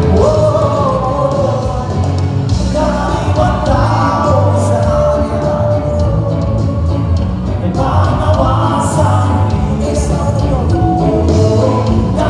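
Live band music played loud through a PA system: a singer's sung phrases, each a few seconds long with short breaks between, over a heavy, steady bass line.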